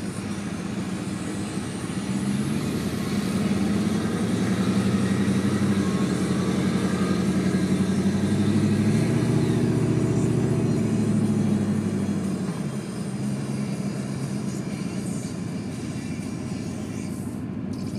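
Turbo-diesel engines of an International Harvester 1456 and a John Deere 4320 tractor running flat out in a drag race. The engine sound swells about two seconds in, stays loud, then falls away after about twelve seconds.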